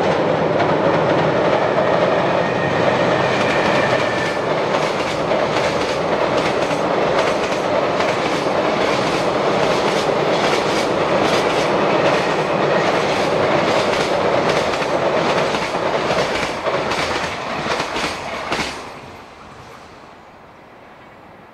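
Train passing close by, its wheels clacking over the rail joints in a long run of clicks. The sound drops away suddenly about nineteen seconds in.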